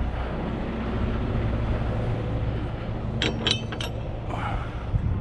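Truck engine idling steadily, with a quick run of ringing metallic clinks from shackle hardware being handled a little past three seconds in.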